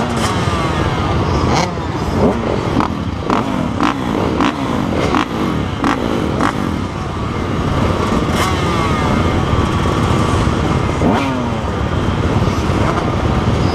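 Motocross bikes riding on a dirt track: several engines revving up and falling back through the gears, their pitches crossing one another, with sharp knocks now and then.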